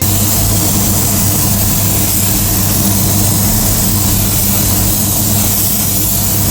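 Steady machine noise: a constant low hum under an even hiss, with no change in pitch.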